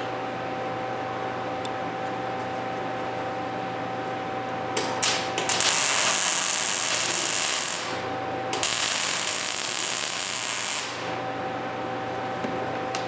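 Welding on steel frame plates: a couple of short arc starts, then two runs of loud hissing arc, about three and two seconds long, over a steady shop hum.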